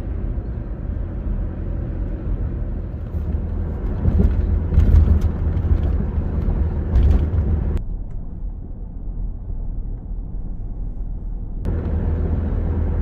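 Road and engine noise inside a moving car's cabin, a steady low rumble with a hiss above it. The hiss cuts out for about four seconds past the middle and then returns.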